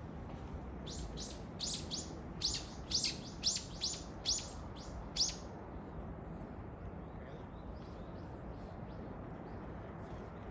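A bird calling: a run of about ten short, sharp chirps, each dropping in pitch, over a few seconds, then a few fainter calls, over steady low background noise.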